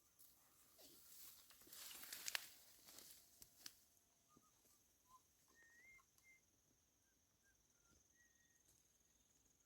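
A brief rustling with a few sharp clicks, loudest a little after two seconds in, over a faint steady high insect trill. A few small bird chirps follow.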